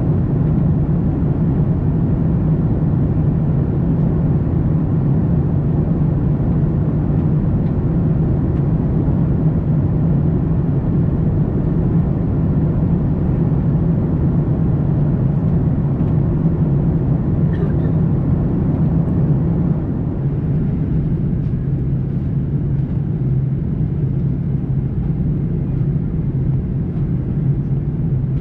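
Steady cabin noise of an Airbus A340-300 in cruise: a continuous low hum and rush of engine and airflow noise, dipping slightly in loudness about two-thirds of the way through.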